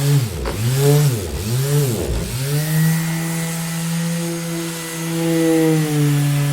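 Electric orbital sander running with a steady motor hum. Its pitch dips sharply and recovers three times in the first two seconds or so, then holds steady.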